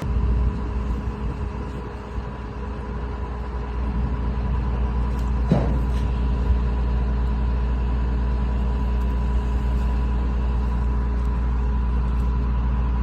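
A steady low engine rumble with a thin steady hum above it, and one brief knock about five and a half seconds in.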